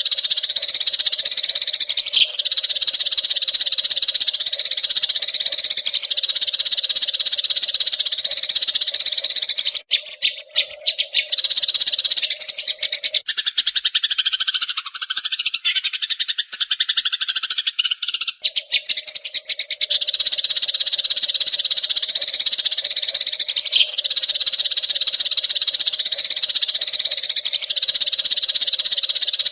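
Eurasian tree sparrows chirping in a dense, continuous chorus. From about 10 to 18 seconds in, the chorus breaks into rapid separate chirps and more varied calls before the steady chattering resumes.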